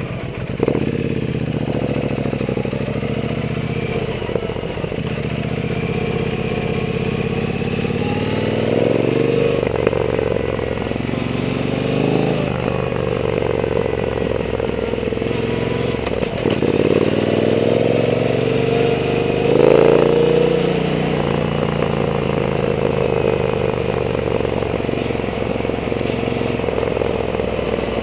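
Triumph Bonneville T120's parallel-twin engine running through a Zard aftermarket exhaust while riding. The pitch climbs and drops back several times as the bike accelerates and shifts, and it is loudest about two-thirds of the way through.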